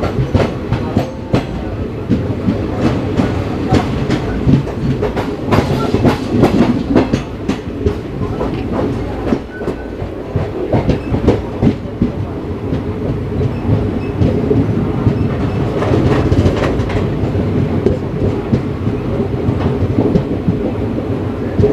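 Passenger express train running along the track: a steady rumble of wheels on rail with many irregular clicks and knocks as the coach rolls over joints.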